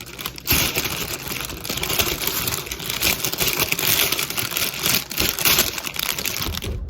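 A yellow bell pepper being handled and cut in the kitchen: a busy run of crisp crunching clicks and taps that stops abruptly near the end.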